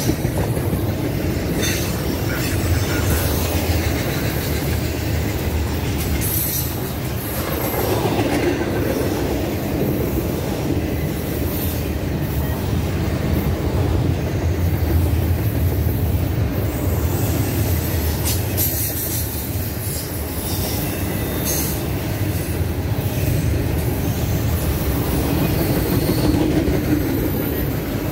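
Double-stack intermodal freight train's well cars rolling past: a steady, loud rumble of steel wheels on rail, with a few sharp clacks along the way.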